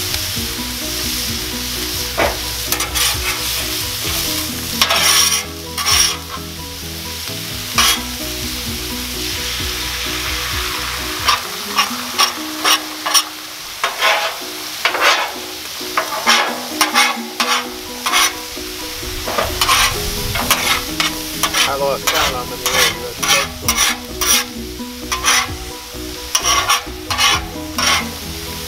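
Steak, vegetables and eggs sizzling on a Blackstone flat-top gas griddle, with metal spatulas scraping and clacking against the steel cooktop as the food is turned and chopped. The spatula clacks come in quick runs, thickest in the second half.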